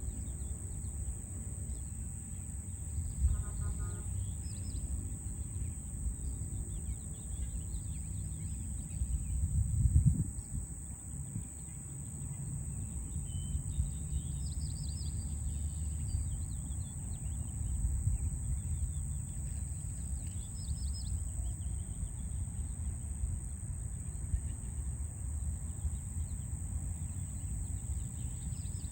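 Small birds chirping now and then in a city park, over a steady low rumble of distant city traffic and a constant high-pitched hum. A louder low rumble swells and fades about ten seconds in.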